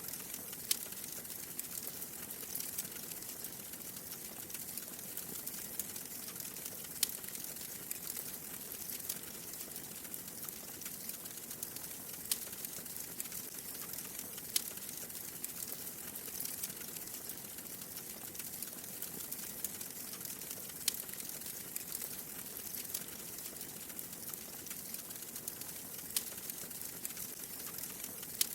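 Wood fire in a fireplace crackling, a steady soft hiss and fine crackle with a sharp pop every few seconds.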